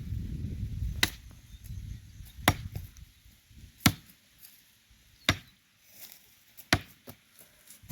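Axe blows chopping into the trunk of a dry tree, five sharp strikes about one and a half seconds apart. The wood is dry and hard, so the cutting goes slowly.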